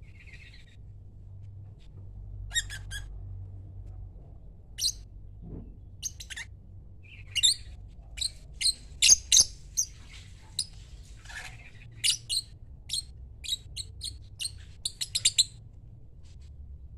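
Lovebird giving short, sharp, high-pitched chirps and squawks in irregular runs, sparse at first and coming thick and fast in the second half.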